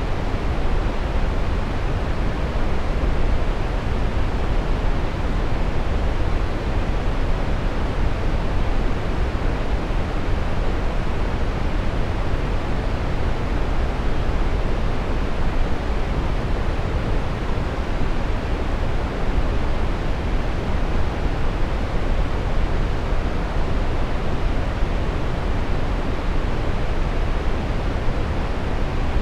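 Steady brown noise: an even, unchanging rush, deep and heavy in the bass and dull in the treble, with no breaks or events.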